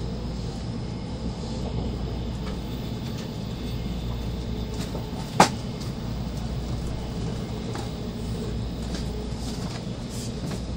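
Steady low rumble inside the passenger cabin of an N700 series Shinkansen running slowly under a heavy-rain speed restriction. A single sharp click cuts through about halfway through.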